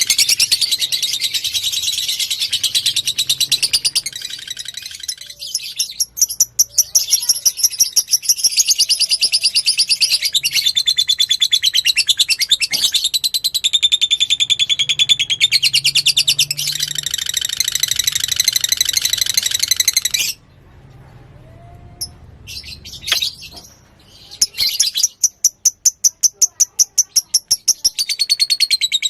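Lovebird singing: long runs of rapid, high chattering trills. About twenty seconds in it breaks off for a few seconds of scattered short chirps, then the trilling starts again.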